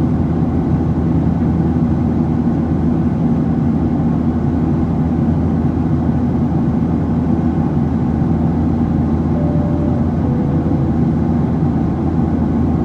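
Steady cabin noise of a Boeing 737-700 in its climb: the engines' low drone mixed with the rush of air along the fuselage. About ten seconds in, a soft two-note falling chime sounds.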